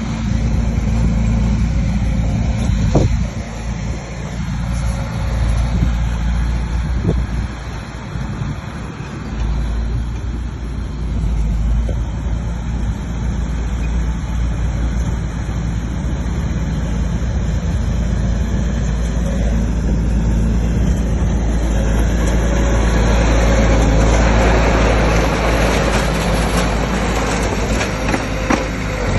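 Bulldozer's diesel engine running steadily at work, with a few short knocks in the first half. It grows louder and harsher about two-thirds of the way in.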